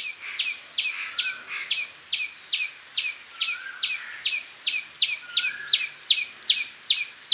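Common tailorbird calling, a loud run of sharp, quickly repeated notes, each falling in pitch, about two or three a second. A softer, lower rising call sounds three times behind it.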